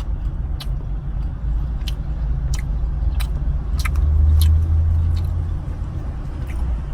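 A person chewing a soft piece of street-food intestine, with scattered wet mouth clicks, over a steady low vehicle rumble that swells briefly about four seconds in.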